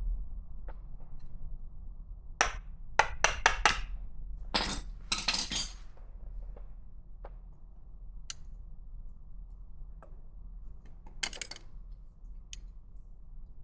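Metal parts and tools clinking and knocking against each other and a work surface: a quick run of sharp taps a couple of seconds in, a longer rattle just after, and another brief rattle near the end.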